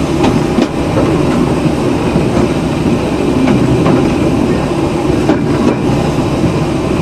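A 2 ft 3 in narrow-gauge train running along the line, heard from on board: a steady rumble with scattered clicks of the wheels over the track.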